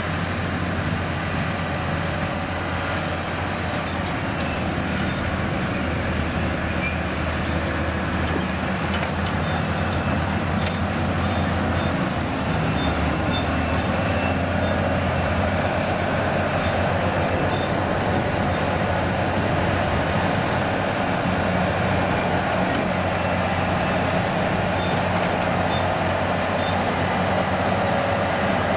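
Heavy diesel engine of a vintage truck or construction machine running steadily, with a low, even hum.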